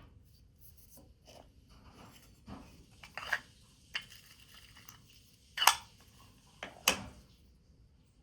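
Small objects handled on a work surface: scattered light taps and rustles, then two sharper clacks a little over a second apart.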